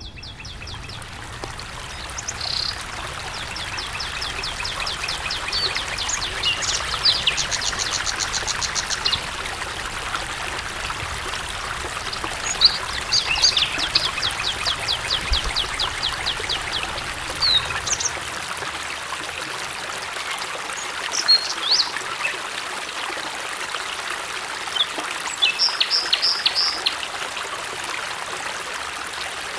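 Water running steadily in a stream, with small birds calling over it in rapid series of high chirps and trills at several points.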